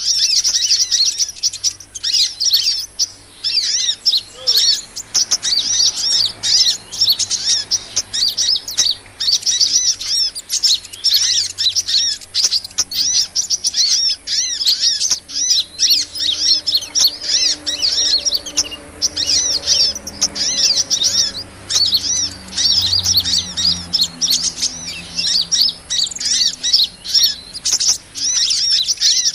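Bird-lure recording of small birds twittering: rapid, high-pitched chirps in dense, continuous runs. A faint low hum lies under the middle of it.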